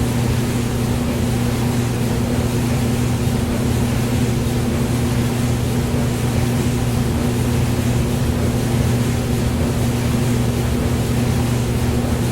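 Hair dryer running steadily: a continuous rush of air over a low, even motor hum, unchanging throughout.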